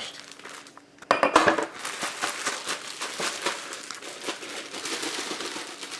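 Plastic bag crinkling and crackling as the crushed biscuits inside are squashed, starting about a second in and loudest at first.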